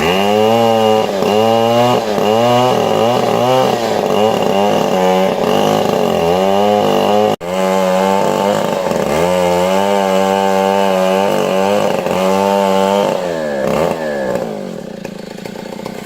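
Two-stroke Stihl chainsaw running at full throttle, cutting into the trunk of a large trembesi (rain tree). Its engine pitch sags repeatedly under load and recovers. It cuts out for an instant about seven seconds in, and near the end it drops off toward idle.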